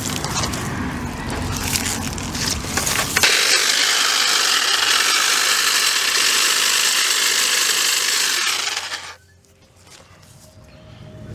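Cordless power tool cutting through roots and brush, running steadily for about six seconds and stopping suddenly, after a few seconds of rustling and clatter.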